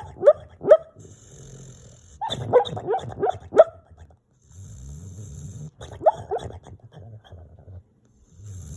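A sleeping dog snoring, with short, high, rising yips and whimpers in its sleep: two at the start, a quick run of about five around three seconds in, and two more about six seconds in.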